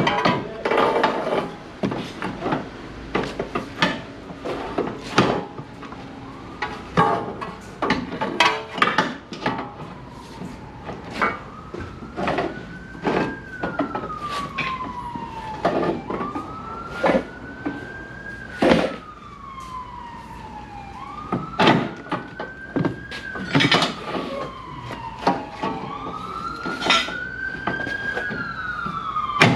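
Repeated sharp metal knocks and clanks of hand tools at work on a car's front suspension. From about a third of the way in, an emergency siren wails slowly up and down in the background, rising and falling about every five seconds.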